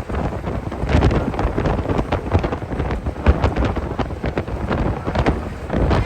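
Heavy wind buffeting the microphone, with a continual low rumble and irregular sharp knocks throughout.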